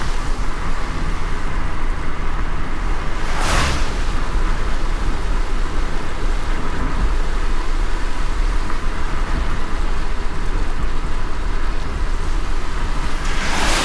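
Car driving in light rain: a steady low road rumble under a rain hiss, with a brief swish about three and a half seconds in and another at the end.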